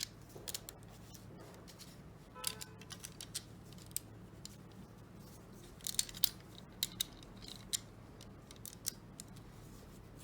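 LEGO bricks clicking and clattering as pieces are handled and pressed together: irregular sharp clicks, in small clusters about two and a half seconds in and again about six seconds in.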